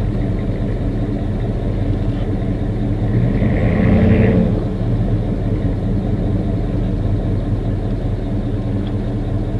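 Car engine running with a steady low hum, as from a vehicle on the move, swelling briefly about four seconds in.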